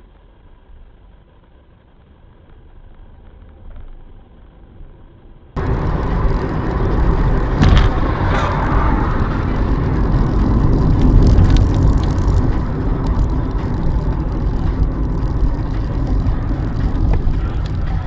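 Dashcam recording of a car on the road: faint road noise at first, then it suddenly becomes loud, steady engine and road noise. There are a couple of sharp knocks about two seconds after it gets loud.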